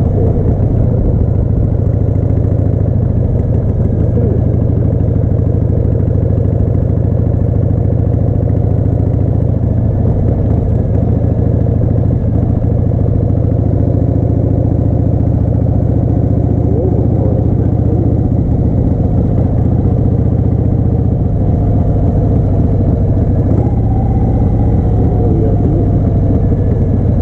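Harley-Davidson Heritage Softail's 1340 cc Evolution V-twin engine running steadily, loud and unchanging throughout.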